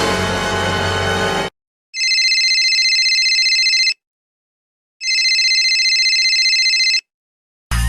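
Telephone ringing twice, each ring a warbling high tone lasting about two seconds with about a second of silence between. Before it, the held final chord of a dramatic 'dun dun dun' music sting cuts off about a second and a half in.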